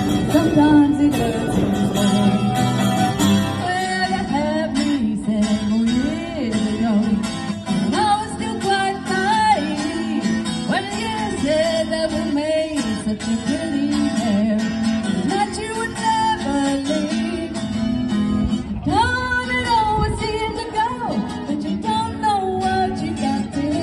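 Live band music: a woman singing a song over acoustic guitar.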